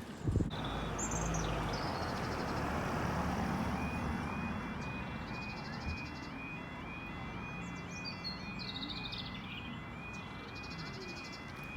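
Level crossing audible warning alarm sounding a repeating two-tone yelp, starting about four seconds in, over steady background noise. A few bird chirps are heard as well.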